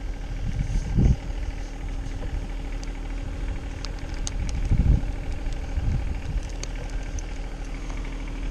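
An engine running steadily at idle, with a few low thumps over it.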